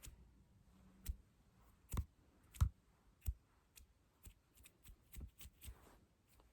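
Close-miked ASMR tapping: separate sharp taps, the louder ones with a dull thump, about one a second at first and coming quicker and lighter in the second half.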